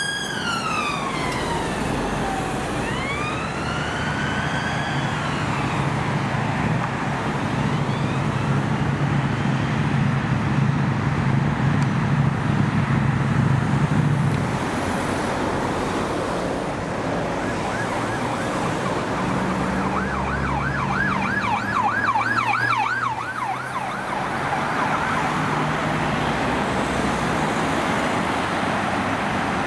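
An emergency vehicle's siren passing on the road. It sounds a slow wail that falls and rises in the first few seconds, then a fast warbling yelp about two-thirds of the way through, over the vehicle's engine and steady traffic noise.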